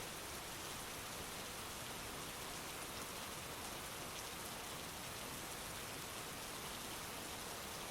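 Heavy rain falling steadily, with scattered drops ticking on a surface.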